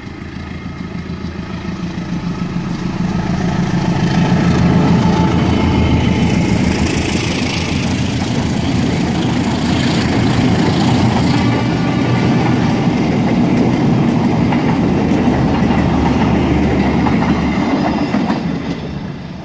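CC203 diesel-electric locomotive passing with its passenger carriages. The engine runs steadily while the wheels clatter over the rail joints. The sound builds over the first few seconds, stays loud, and falls away near the end.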